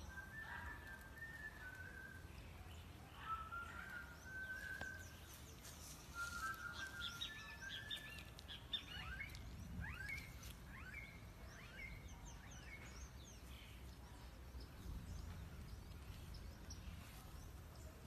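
Birds chirping and whistling: many short, level whistled notes and quick sweeping chirps, over a steady low rumble of outdoor background noise.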